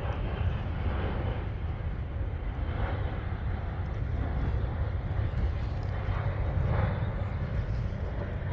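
Airplane engine noise: a steady low rumble.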